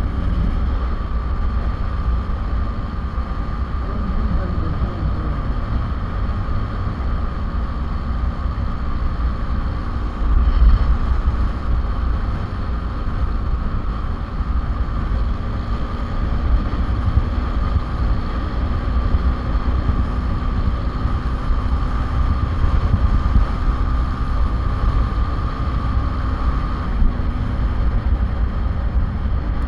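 Motorcycle riding at road speed: wind buffeting the microphone over the engine and road noise, with a steady high whine that stops near the end and a louder gust about ten seconds in.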